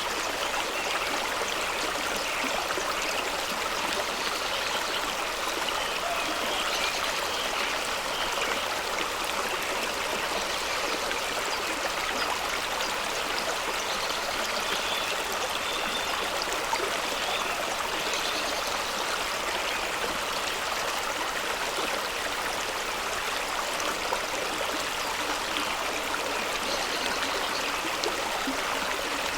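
Fast-running stream of water rushing and splashing over rocks at a small waterfall, a steady even rush.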